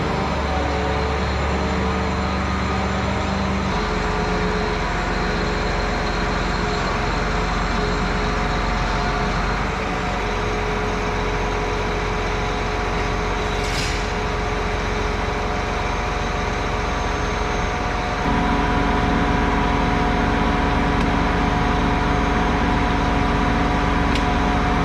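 John Deere 8270R tractor's six-cylinder diesel running steadily. Its note changes about four seconds in and gets a little louder about eighteen seconds in.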